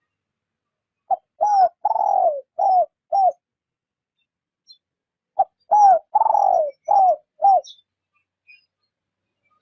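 A decoy spotted dove cooing in the gentle 'rút bổi' style. It gives two phrases of about five coos each, a couple of seconds apart, and each phrase has a longer, falling note in the middle.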